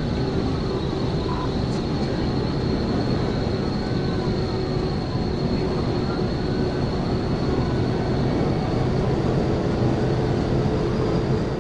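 Police patrol car at pursuit speed: steady engine and road noise, with a siren wailing faintly up and down about every two seconds.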